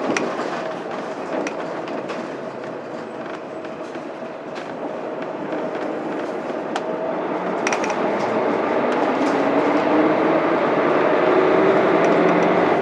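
Cabin sound of a Mitsubishi Fuso Aero Star bus under way, its 6M70 straight-six diesel engine running with light rattles and clicks from the body. About halfway through the engine note climbs steadily in pitch and grows louder as the bus gathers speed in gear.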